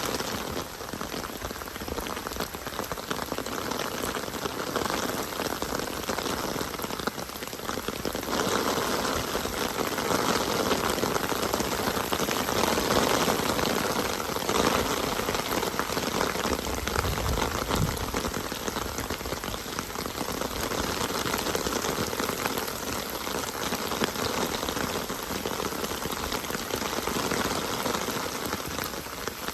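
Steady rain falling, a little louder after the first third, with a brief low rumble a little past halfway.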